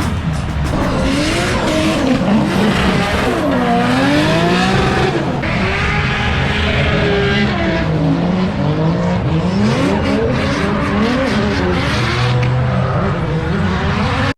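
Drift cars on track, engines revving hard and sweeping up and down in pitch as the throttle is worked, over a constant rush of spinning, squealing tyres. At times two engines are heard crossing each other. The sound cuts off abruptly at the end.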